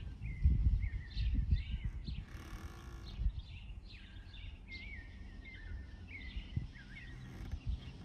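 Small birds chirping over and over, short calls with quick slurs and bends, over an irregular low rumble that is strongest in the first couple of seconds.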